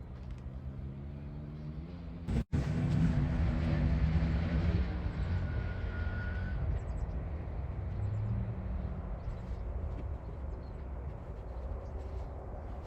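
Motor vehicle engine running, its pitch rising over the first couple of seconds as it speeds up. It cuts out for an instant, then runs on louder and steadily.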